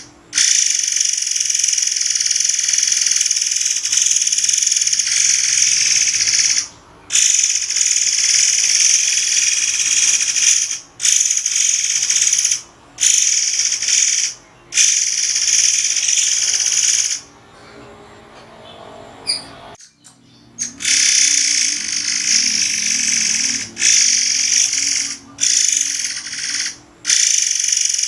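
Murai air songbird singing long, high-pitched, shrill phrases a few seconds each, broken by short pauses, with a longer quieter gap about two-thirds of the way through.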